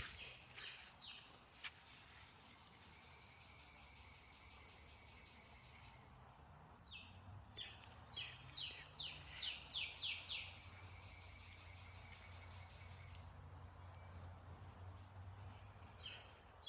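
Insects, likely crickets, give a steady high trill, and a bird sings a quick run of about seven falling notes midway. A faint low rumble sits underneath in the second half.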